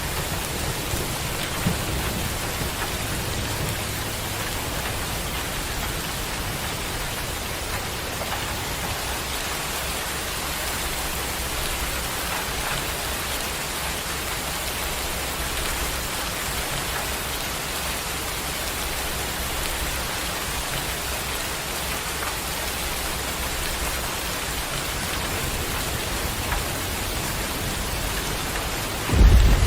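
Steady rain falling, with a low rumble of thunder under it, and a loud roll of thunder breaking in suddenly near the end.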